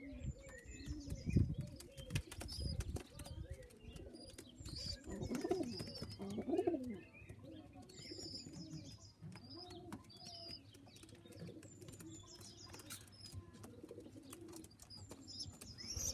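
Pigeons cooing over and over, loudest about five to seven seconds in, with series of high thin peeping calls and scattered light taps.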